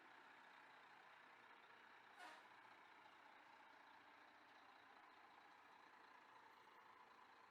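Near silence: a faint steady hum of distant vehicles, with one short sharp click about two seconds in.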